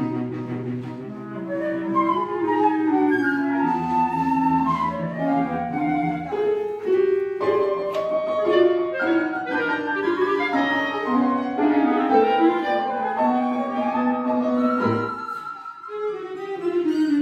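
Chamber ensemble of flute, clarinet, bowed strings and piano playing atonal classical music in quick, restless figures. The texture thins briefly near the end before the ensemble comes back in strongly.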